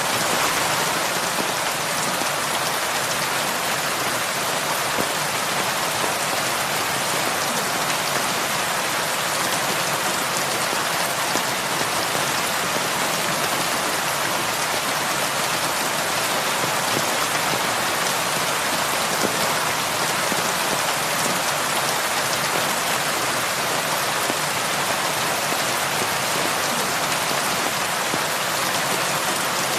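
Steady heavy rain pattering on a roof, an even dense hiss with no letup and an occasional sharper drop.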